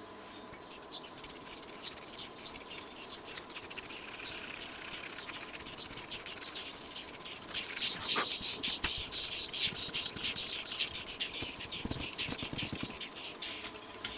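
Small brush scrubbing dust off an amplifier circuit board: quick, crisp scratchy strokes, sparse at first and faster and louder about halfway through.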